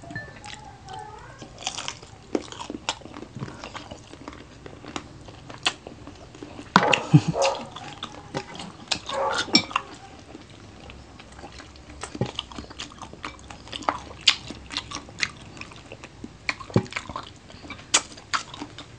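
Close-up eating sounds of people biting and chewing crunchy fried adobo chicken feet: irregular crunches, clicks and mouth smacks, with louder bursts about seven and nine and a half seconds in.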